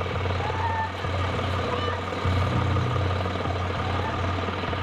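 A heavy truck's engine running steadily with a low hum, typical of an emergency vehicle such as a fire engine or ambulance idling at the scene.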